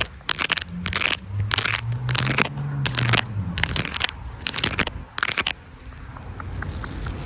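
Footsteps crunching through dry leaves and twigs on a forest floor, about two steps a second, stopping after about five seconds, leaving only faint crackles.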